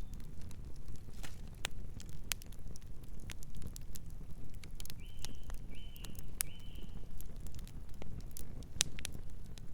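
Campfire crackling and popping, with irregular sharp snaps over a low steady rumble of burning. Three short chirps from a night bird come about halfway through.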